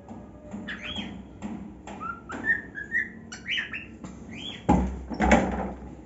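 Cockatiel chirping in a quick run of short calls that rise and fall in pitch, then two loud thumps about half a second apart near the end.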